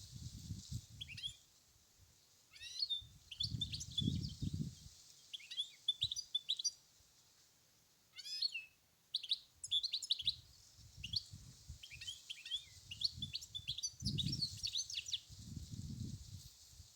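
European goldfinch singing: quick twittering phrases of high chirps and trills in bursts, over a steady high hiss. Intermittent low rumbles of wind on the microphone come and go.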